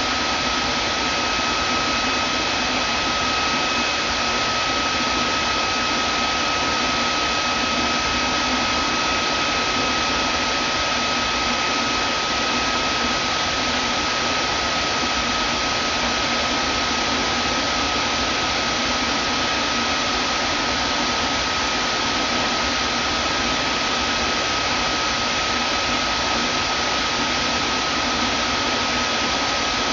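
Vacuum cleaner motor running steadily: an even rushing hiss with a steady high whine over it.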